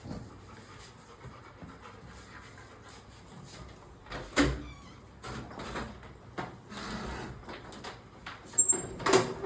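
A door being handled: a run of sharp knocks and clatters beginning about four seconds in, with a brief high squeak near the end.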